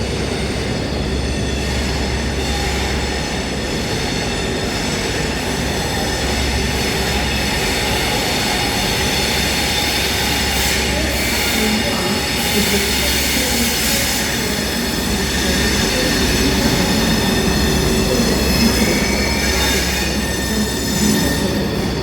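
HST test train with its Class 43 diesel power cars running through a station: a steady rumble of engine and wheels, with a high-pitched, ringing wheel squeal throughout.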